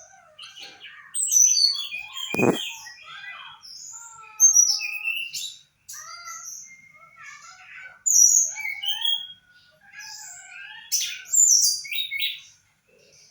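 A caged songbird singing a busy string of varied chirps, trills and short whistled notes, played as a lure song to draw another bird into song. A single sharp knock sounds about two and a half seconds in.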